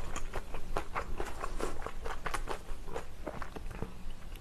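Close-miked chewing of a mouthful of kimchi fried rice: a quick, uneven run of wet mouth clicks and smacks, several a second.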